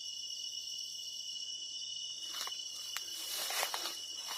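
Steady chorus of crickets and other insects: several even, high-pitched tones that hold without a break. A few short rustling or scuffing noises come in about halfway through.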